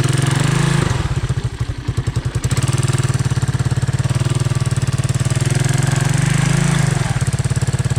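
Honda ATC 200M three-wheeler's single-cylinder engine running steadily under throttle. It eases off to a slower chugging about a second in, picks back up after about two and a half seconds, and eases off again near the end.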